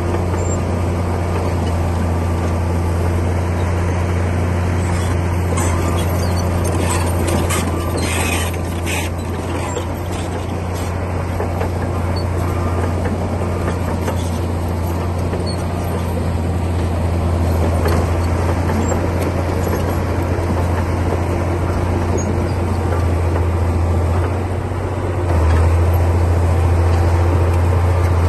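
Komatsu D60P bulldozer's diesel engine running steadily as it works, with a short cluster of metallic clanks about seven to nine seconds in. The engine note changes and gets louder about three seconds before the end.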